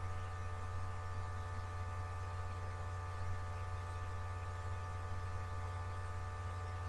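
Steady electrical hum: a low drone with several fainter steady higher tones over light hiss, unchanging throughout.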